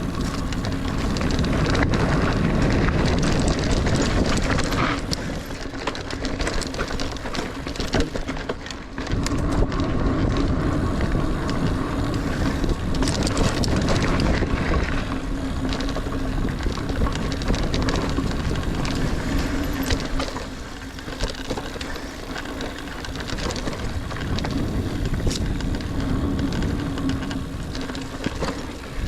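Niner Air 9 RDO 29er mountain bike ridden along dirt singletrack: continuous tyre and drivetrain noise with a steady low hum and frequent sharp knocks and rattles from the bike over bumps and roots.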